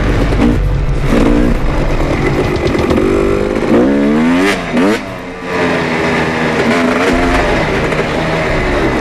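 Dirt bike engine revving, its pitch rising and falling, with a sharp rev up and back down about four to five seconds in.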